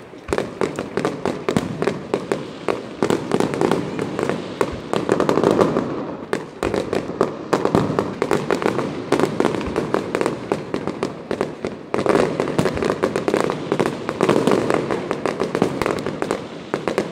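Fireworks display going off in a dense barrage: many sharp bangs and crackles each second, overlapping without pause, as shells burst overhead.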